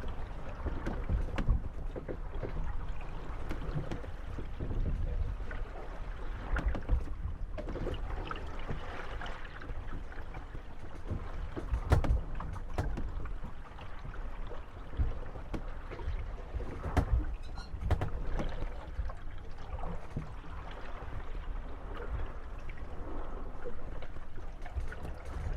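Moored gondolas rocking on lapping water, their hulls creaking and knocking against one another over a steady low slosh. Scattered knocks, the loudest about twelve and seventeen seconds in.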